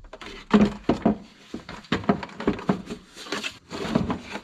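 Irregular clicks, taps and knocks of hands handling plastic washer hose and parts while fitting the washer line.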